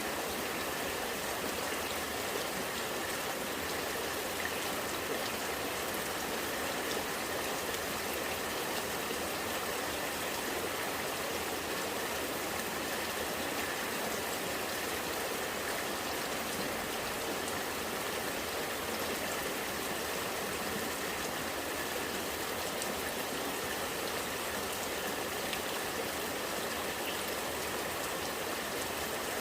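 Rainwater running and gurgling steadily, with faint scattered ticks of raindrops.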